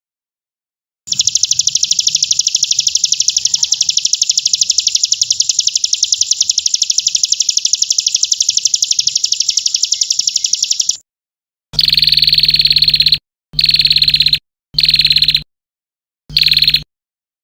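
A songbird's very rapid, high-pitched trill runs unbroken for about ten seconds. Then come four short bursts of fast high notes with pauses between them, each burst carrying a faint low hum. The bird-song recordings are edited, so each part cuts in and out abruptly.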